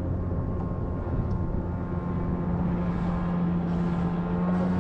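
Boat motor running with a steady low hum that shifts slightly in tone about a second and a half in, with water and wind noise underneath.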